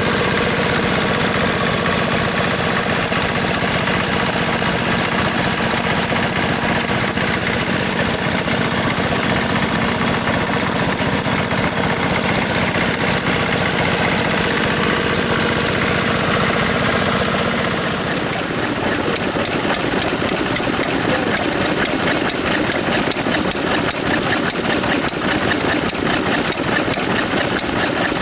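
Vintage stationary engines running with a fast, even chugging beat; about two-thirds of the way through the sound changes as a different engine comes to the fore.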